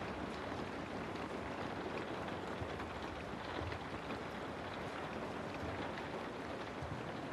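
Steady rain ambience: an even hiss of rain with faint scattered drops pattering.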